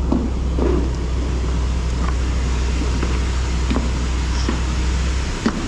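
Steady low hum of dairy milking-shed machinery, with scattered light clicks and knocks of equipment; the hum drops out briefly near the end.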